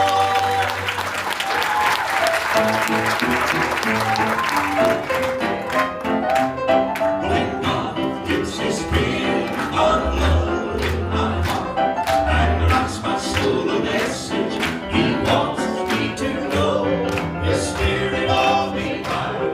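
Live southern gospel band music: a held closing chord, audience applause for the first few seconds, then the band playing an instrumental passage with quick notes over a deep bass.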